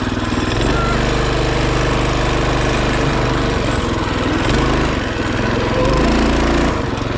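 Minibike's small engine running under throttle, its pitch and loudness shifting a few times as the rider opens and eases off the throttle.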